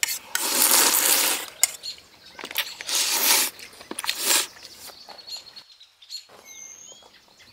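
Three short bursts of rushing noise in the first half, then faint birds chirping in short gliding calls near the end.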